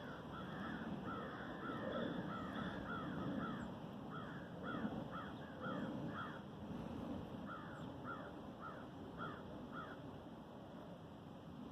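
A bird giving short, harsh calls in quick runs, three runs of about six to eight calls each, over a steady low background rumble.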